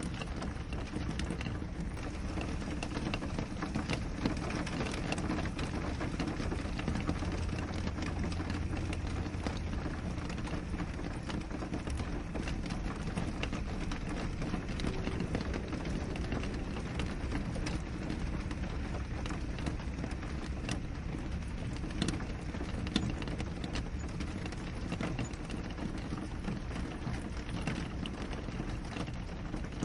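Steady rain falling on a window: a continuous hiss with many scattered drops tapping on the glass, a few of them sharper and louder.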